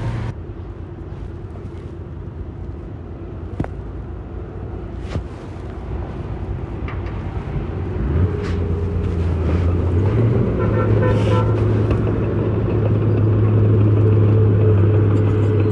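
Heavy diesel engine of construction machinery running steadily, growing louder about halfway through, with a few sharp knocks in the first half.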